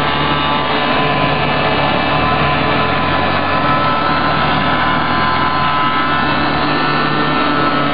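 Small engine running steadily at a fairly constant, high speed, with a slight change in its low hum about seven seconds in.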